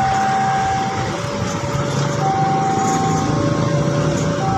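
Railway level-crossing warning alarm sounding a two-tone hi-lo signal, switching between the higher and the lower tone about once a second, over a steady low rumble of the passing train and traffic.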